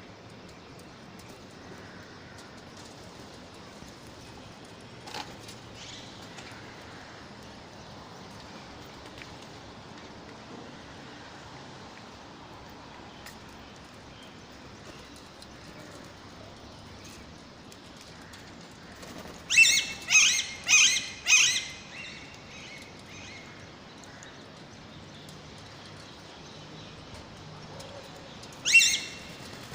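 Parrot screeching: a quick run of five sharp, shrill calls about two-thirds of the way in, and one more call near the end, over a steady low background.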